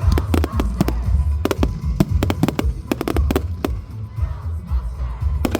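Fireworks going off in a rapid run of sharp bangs and crackles, thinning out after about four seconds, with a last pair near the end. Loud music with a heavy bass plays underneath.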